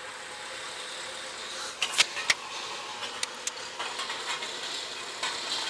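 Scattered metallic clicks and knocks of a wrench on the crankshaft pulley bolt over a steady hiss, as a Subaru boxer engine is turned over by hand through several revolutions to check the new timing belt's timing marks.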